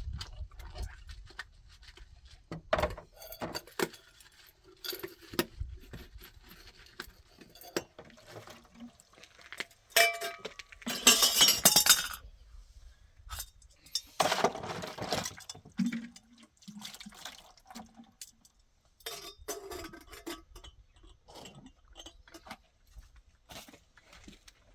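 Scattered clinks and knocks of dishes and pots being handled, with two louder, longer clattering stretches about ten and fourteen seconds in.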